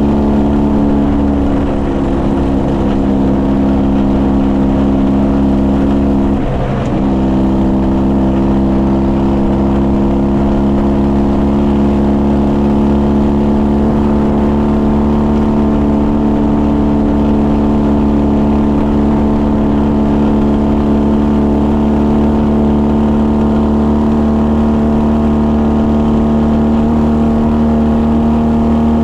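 Ural motorcycle's flat-twin engine running steadily at cruising speed under way, with a quick dip in engine speed about six and a half seconds in, as in a gear change, before settling back to a steady drone.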